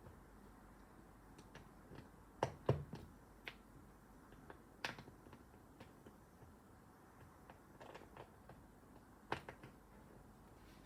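Plastic Lego bricks clicking and tapping as pieces are handled and pressed together: scattered sharp clicks, the loudest pair about two and a half seconds in.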